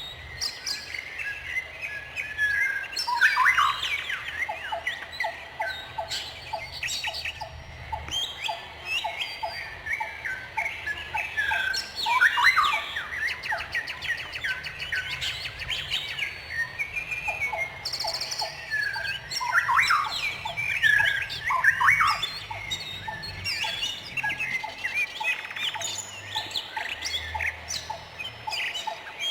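Several songbirds chirping and singing at once, with overlapping quick whistles and calls and, at times, a lower trill of evenly spaced notes.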